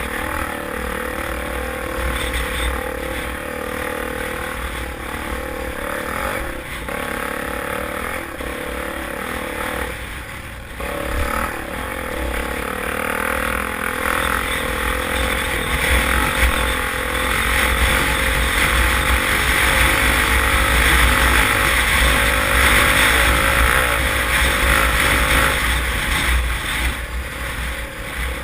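Motocross dirt bike engines running on the track, revving and rising and falling as the bikes ride, with a brief drop about ten seconds in and a louder stretch in the second half.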